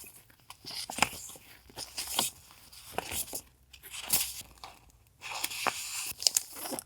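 Journaling papers and sticker packets being handled: irregular rustling and crinkling with short crackles and taps, in bursts with brief pauses between.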